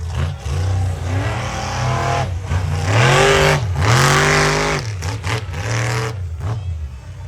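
Monster truck engine revving hard, its pitch rising and falling several times, loudest about three to four and a half seconds in.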